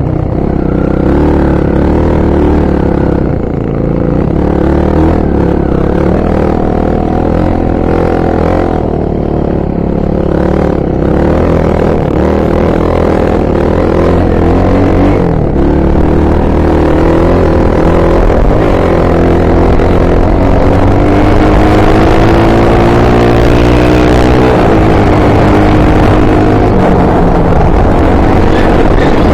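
Honda XR 250 Tornado's single-cylinder four-stroke engine running under way, its pitch rising and falling with the throttle. The pitch climbs through the second half, with a sudden drop about three quarters of the way through.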